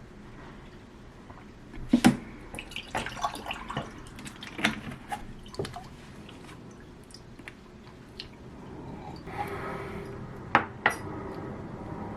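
Kitchen handling sounds: a scatter of small taps, clicks and knocks of utensils and dishes, with a sharp knock about two seconds in and two more near the end, and a faint steady hiss in the last few seconds.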